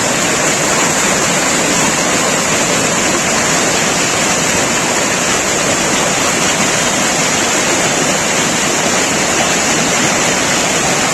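Waterfall, its water rushing loudly and steadily without change.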